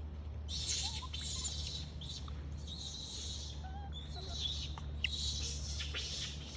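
High-pitched chirping in repeated short bursts, with a few faint squeaks in between and a low steady hum underneath.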